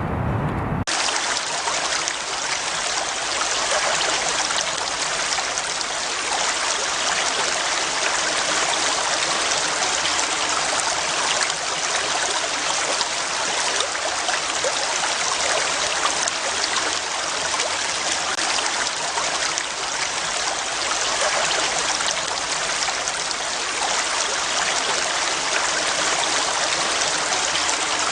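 Stream water splashing and flowing over rocks, a steady rushing that never changes. About a second in, a low rumble cuts off suddenly as the water sound begins.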